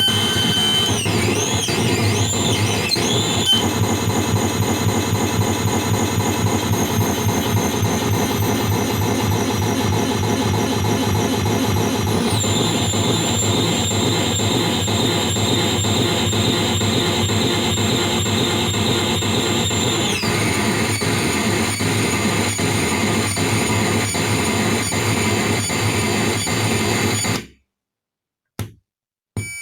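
PT2399 noise-delay effect running as a dense, harsh noise drone with high whistling tones riding on it; the tones wobble in pitch early on and slide down a couple of times. It cuts off suddenly about two seconds before the end, with a couple of short clicks after.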